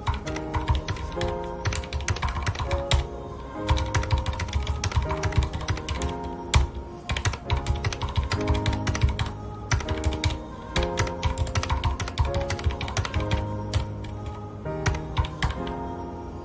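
Typing on a mechanical keyboard with red linear switches: quick, irregular runs of key clicks with short pauses between them, over background music with held notes and chords.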